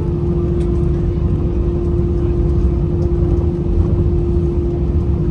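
Steady low rumble with a constant hum inside the cabin of an Airbus A320-214 on the ground after landing.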